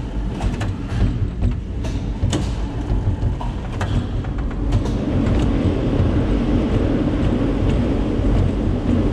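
Small rail tram capsule running on its track: a low rumble with scattered clicks and knocks, becoming louder and steadier about five seconds in.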